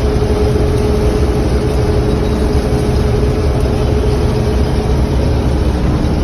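Heavy farm machinery running steadily during corn harvest: a deep, even engine rumble with one steady whine held over it.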